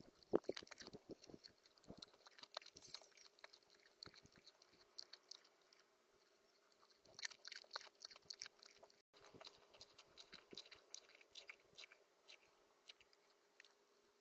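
Small rodent chewing and cracking seeds: faint, rapid little crunches and clicks in irregular runs with short pauses between them.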